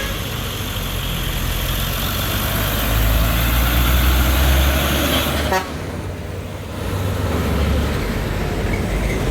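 Heavy truck engine running under load, growing louder, then cutting back suddenly just past halfway with a short rattle of clicks, and picking up again a second later.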